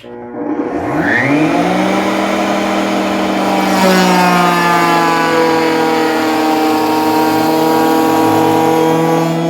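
Router in a router table switched on and spinning up to a steady high whine. About four seconds in, a large V-groove bit starts cutting a short clearance groove in a table saw insert, and the pitch dips slightly under the load.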